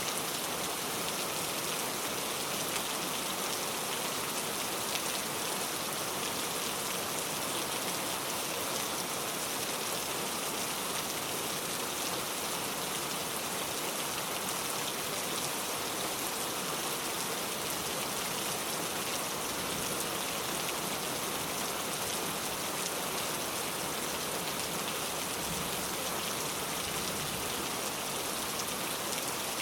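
Steady rain falling and pattering on a surface, an even dense hiss of many drops with no breaks.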